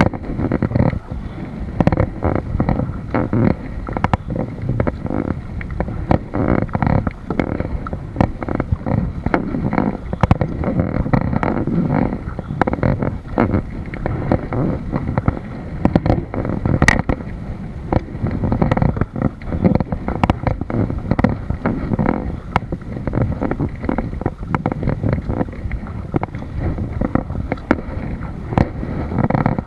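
Water sloshing and splashing against a kayak, with wind buffeting the microphone: a dense, irregular rumble full of small knocks and one sharper click about seventeen seconds in.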